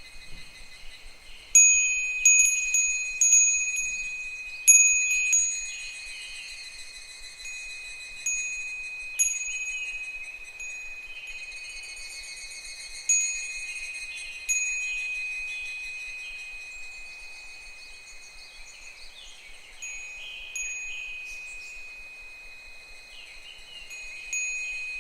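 A Japanese wind bell (fūrin) swaying in the wind, its clapper striking the bell about a dozen times at irregular intervals. Each strike gives one clear high ring that fades away, and a few come in quick clusters near the start. Behind it runs a steady, faintly pulsing chorus of higurashi (evening cicadas).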